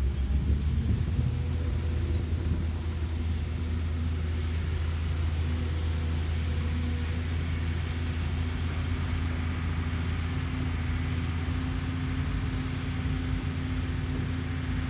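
Caterpillar excavator's diesel engine running steadily with a low, even drone.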